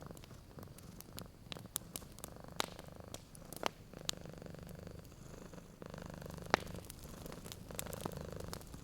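Domestic cat purring steadily, with a wood fire crackling: scattered sharp pops and snaps, one louder pop about two-thirds of the way through.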